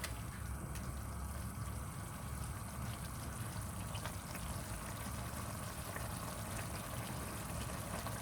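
Spinach and chicken curry simmering in the pan, giving a steady, watery bubbling, with a few light clicks of a spoon as it is stirred.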